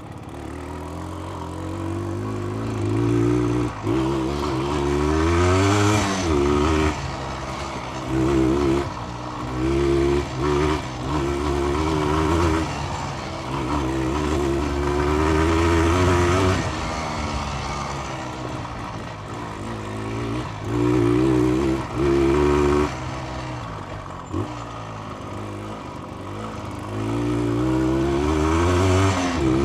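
The two-stroke engine of a 1982 Cagiva SX 350 being ridden off road. Its pitch rises and falls again and again as the throttle is opened and closed, with several brief drops in loudness when the throttle is rolled off.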